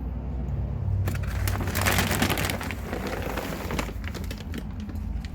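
Rustling and crackling of seed husks and litter on the bottom of a parakeet cage as it is handled: many small clicks, densest in the middle, over a low rumble.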